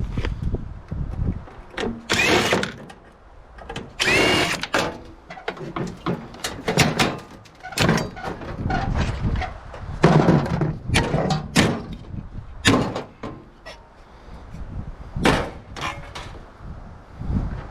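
Irregular metal knocks, clanks and scrapes from a scrap microwave oven being taken apart by hand, with a short metallic squeal about four seconds in.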